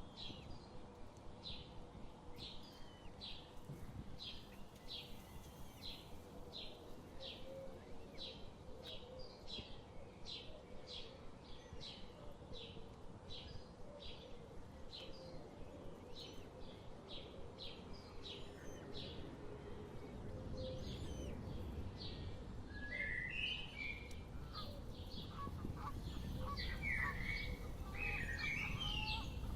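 A small bird chirping over and over, a short high call about twice a second. From about two-thirds of the way in, louder, lower chirping calls join, over a low rumble that grows toward the end.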